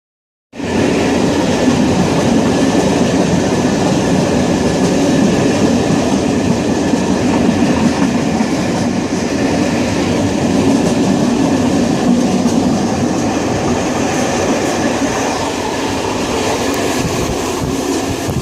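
A moving train running steadily on its rails, a continuous loud rumble that starts abruptly about half a second in and eases slightly near the end.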